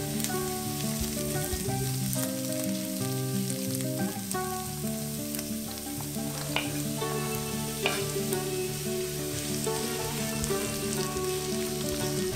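Onions sizzling as they fry in a non-stick wok and are stirred with a silicone spatula, with two sharp knocks about six and a half and eight seconds in. Soft background music with held notes plays under the frying.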